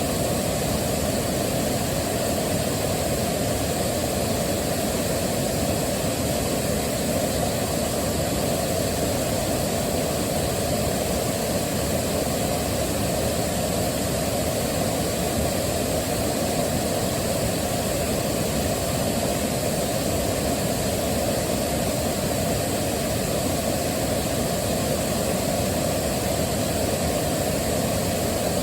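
Waterfall rushing steadily: an even, unbroken roar of falling water, weighted toward the low and middle pitches, with no change in level.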